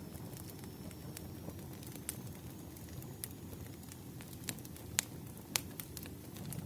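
Wood fire crackling: a low steady rumble with scattered sharp pops, the loudest two about five and five and a half seconds in.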